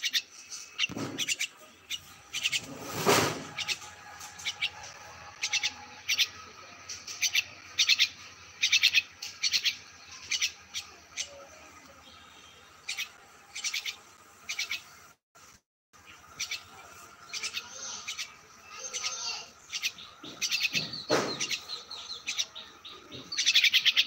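A small songbird chirping in short, high, repeated calls, coming in clusters of about one or two a second. Two brief whooshing noises cut in, one early and one near the end, and the sound drops out completely for a moment about halfway through.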